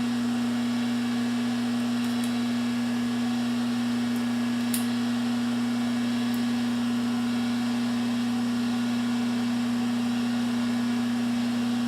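Steady machine hum in a workshop, with a strong low tone over a faint whir. A couple of light ticks come about two and five seconds in.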